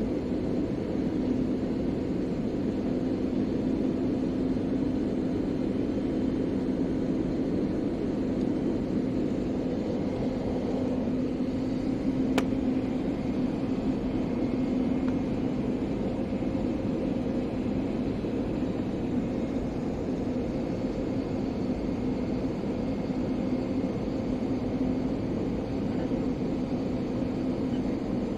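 Steady airliner cabin noise: engines and air rushing past the fuselage, with a steady low hum underneath. A single sharp click about twelve seconds in.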